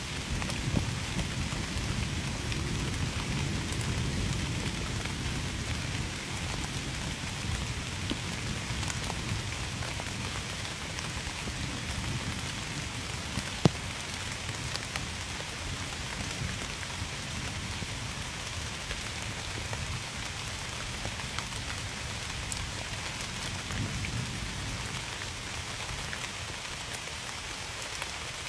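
Steady rain falling, with a low rumble of thunder dying away over the first several seconds. Scattered sharp drip ticks cut through, one louder than the rest about halfway through.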